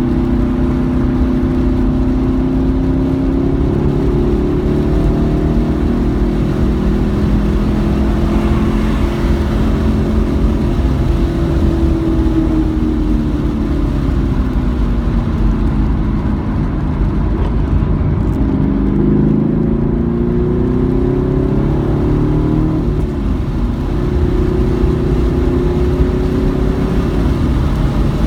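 Car engine being driven hard around a race track, its pitch climbing as it accelerates and falling away as it slows, several times over, over a steady low rumble of road and tyre noise.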